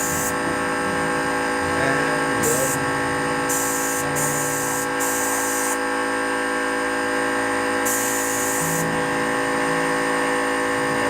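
Electric paint sprayer running with a steady, buzzing whine, the spray hissing on and off in short bursts as the trigger is worked.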